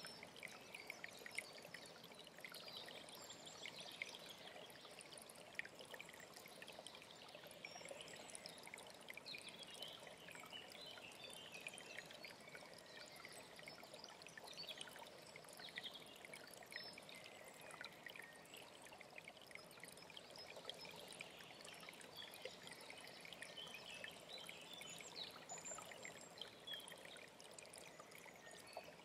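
Faint, steady trickling and splashing of a mountain stream, with faint bird chirps in the background.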